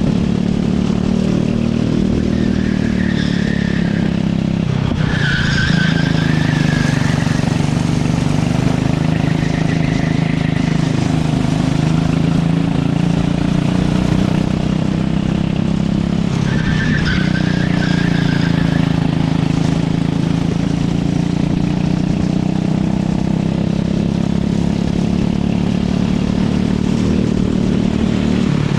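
Racing go-kart engine running hard, its pitch dropping sharply twice as it slows for corners and climbing again as it accelerates out, with the tyres squealing briefly in several corners.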